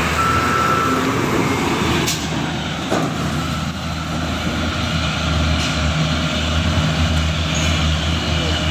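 Heavy diesel truck engine running with a steady deep drone. There is a brief high squeal near the start and a sharp click about two seconds in.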